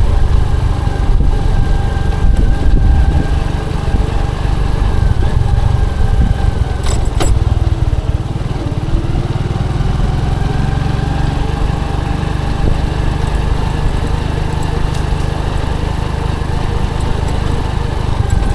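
Motorcycle engine running at a steady pace while riding, under a heavy low rumble, with one sharp click about seven seconds in.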